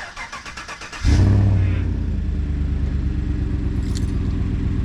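Chevrolet Silverado with an MBRP aftermarket exhaust, cold-started: the starter cranks for about a second, then the engine catches with a brief loud flare and settles into a steady, deep idle.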